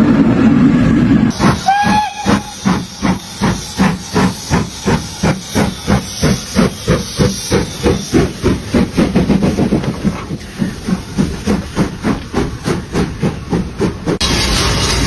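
Steam locomotive working, its exhaust chuffing in a steady beat of about three a second, with a short whistle toot just before the chuffing starts. Steady rushing noise from the neighbouring clips is heard briefly at the very start and again near the end.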